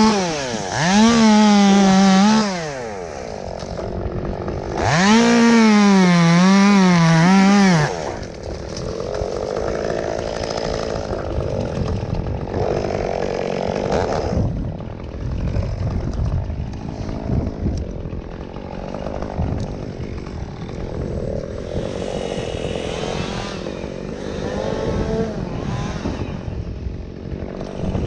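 Chainsaw run at full throttle in two bursts of a few seconds each, its pitch dipping and recovering as the chain bogs in the cut. After that, for the rest of the time, there is a lower, rougher mechanical noise with no clear high revving.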